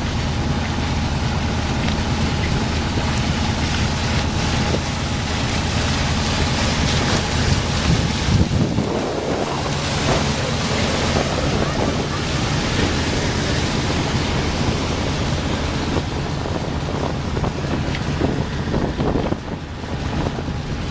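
Wind buffeting the microphone and water rushing along the hull of a sailboat under way, over a steady low drone that shifts in pitch about nine seconds in.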